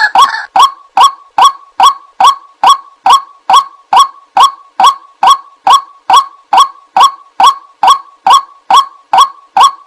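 White-breasted waterhen's call, one short honking "kwak" repeated very evenly about two and a half times a second, as played for luring the bird.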